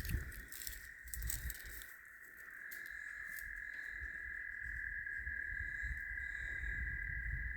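A continuous high trill, steady in pitch, from a calling animal such as an insect or frog, growing louder about two and a half seconds in, over a low rumble on the microphone and a few light clicks near the start.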